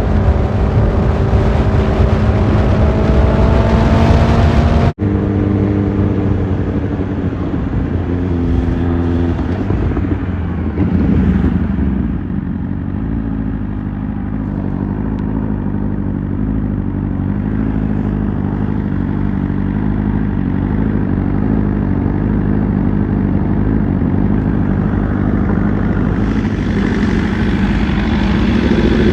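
Motorcycle engine running under way, with wind rushing over the microphone and a slowly rising pitch at first. After an abrupt cut about five seconds in, the engine runs steadily, drops to a lower, slower note around ten seconds in, and picks up again near the end.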